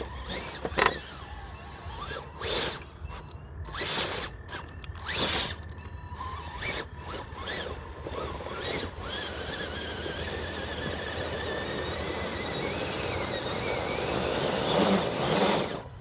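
A scale-model truck's motor and drivetrain whining in short bursts of throttle as its tyres dig into soft ground. From about eight seconds in the whine holds steady and rises slowly in pitch, ending in a louder burst near the end.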